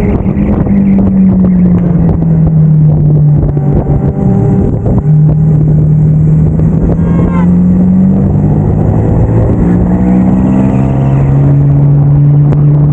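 Motorcycle engine running under way, its pitch rising and dropping several times with throttle and gear changes.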